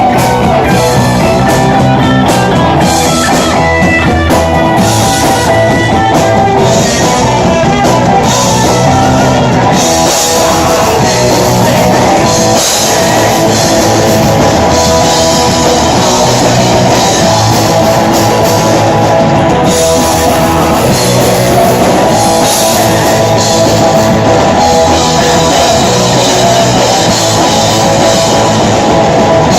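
Rock band playing live: guitars and a drum kit, loud and dense, with no break.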